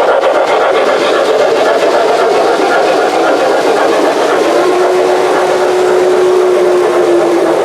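O gauge three-rail model trains running on the layout: a steady, loud rumble of wheels and motors on the track. A steady tone joins in about halfway through.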